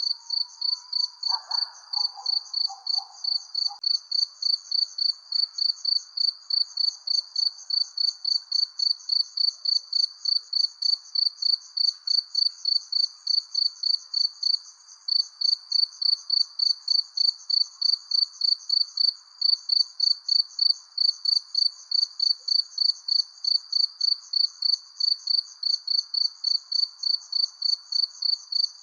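Crickets chirping in a steady, even rhythm, about three chirps a second, with a short break about halfway, over a faint lower background hum of night insects.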